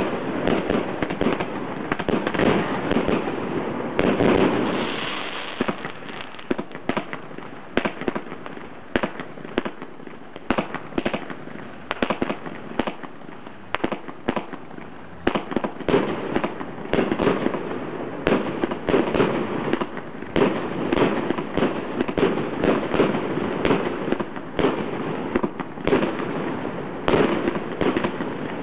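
Aerial fireworks launching and bursting in rapid succession: a dense string of bangs and pops over a crackling haze. The firing thins out for a while a few seconds in, then picks up again into a thick barrage about halfway through.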